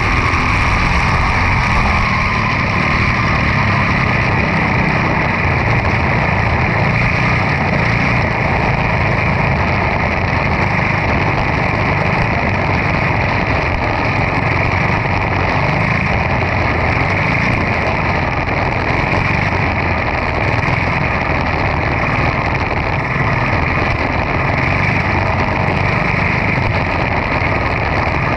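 Quarter midget race cars' single-cylinder Briggs & Stratton Animal engines running steadily at racing speed, a loud continuous engine drone.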